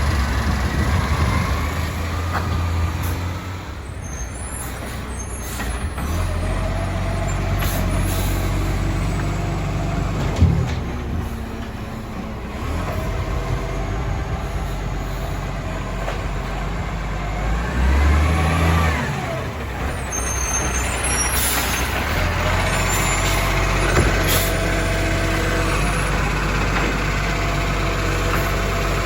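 Euro 5 garbage truck running at kerbside collection: steady diesel engine hum with air-brake hisses and a few sharp knocks, and the engine surging briefly a little past halfway.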